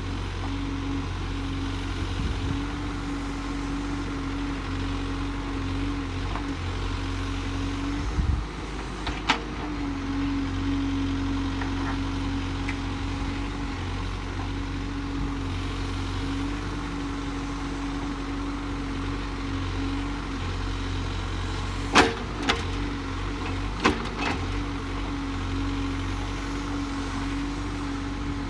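Case backhoe loader's diesel engine running steadily, with a few sharp knocks: two about a third of the way in and two more near the end.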